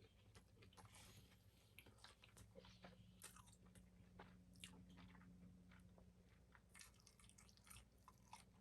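Faint, close chewing of Chinese food: irregular small wet clicks and soft crunches from the mouth as food is bitten and chewed.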